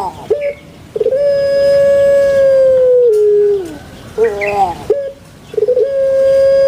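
Puter pelung dove (Barbary dove, Streptopelia risoria) calling twice in its long 'kuk geruk... kwok' song. Each call is a brief rippling stutter followed by a long held hooting note of about two seconds that sags in pitch at the end and falls away. The second call starts near the end.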